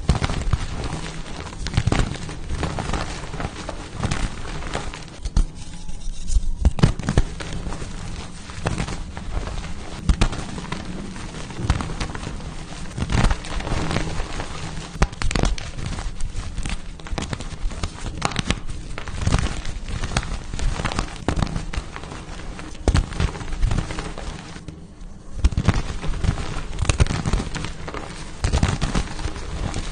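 Pasted gym chalk blocks being crushed by hand: dense, irregular crunching and crackling, with short pauses twice.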